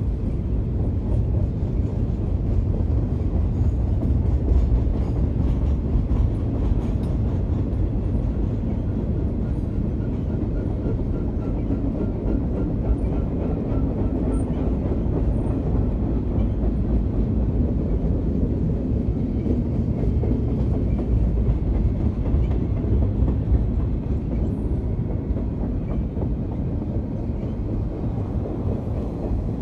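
Double-stack container train's well cars rolling past at steady speed: a continuous low rumble of wheels on the rails with light clicking over the joints.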